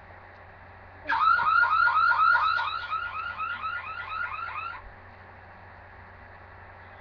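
Electronic siren in a rapid yelp, about four pitch sweeps a second, starting about a second in, fading somewhat, then cutting off suddenly.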